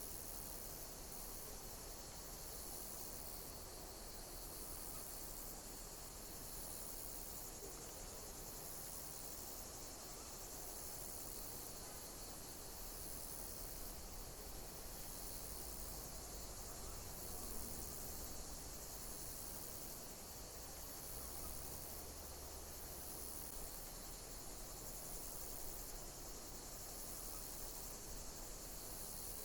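Insects chirping, cricket-like, in high-pitched pulsed bursts that repeat about once a second over a steady background hiss.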